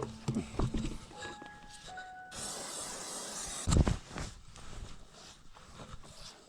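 A few short, steady tones, then a hiss lasting just over a second, followed by a heavy thump and a few quieter knocks.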